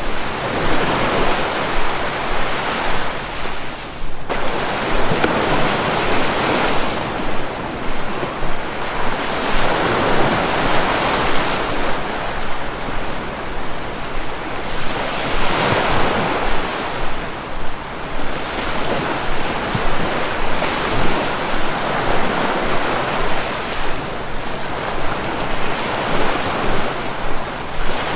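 Sea waves breaking and washing on the shore, the roar swelling and ebbing every few seconds, with some wind noise on the microphone.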